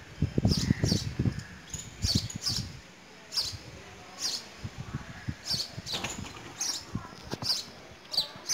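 A small bird chirping repeatedly: about a dozen short, high calls, each falling in pitch and often in pairs. Louder low knocks and scuffs come in the first second or so.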